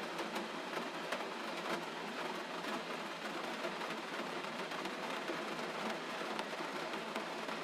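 Steady gentle rain: an even hiss with many small drop ticks scattered through it.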